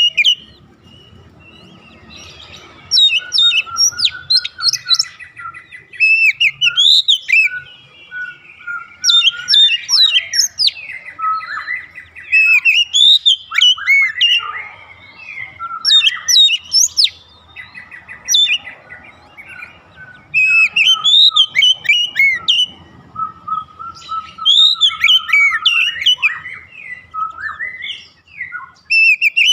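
Oriental magpie-robin singing: loud phrases of fast, varied whistles and chirps, coming every couple of seconds with short pauses between them.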